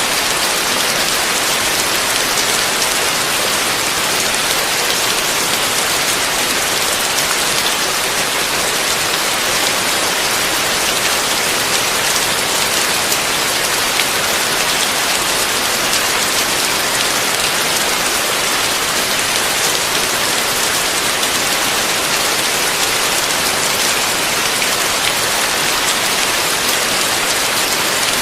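Heavy rain falling steadily: a dense, even hiss with scattered individual drops ticking through it.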